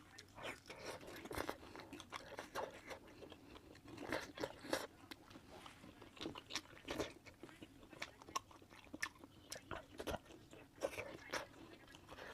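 Close-miked eating of spicy braised meat: a person chewing and biting, with many irregular wet clicks and crunches.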